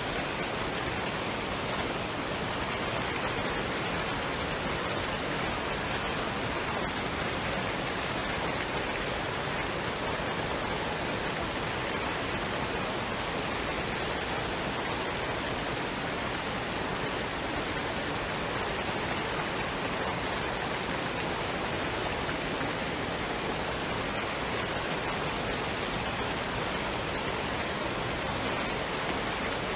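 Waterfall and stream water running, a steady unbroken rush.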